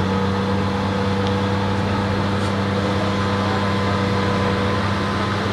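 Diesel engine of a Cat 330D hydraulic excavator running steadily at a constant speed, a deep even hum with a fainter higher tone above it.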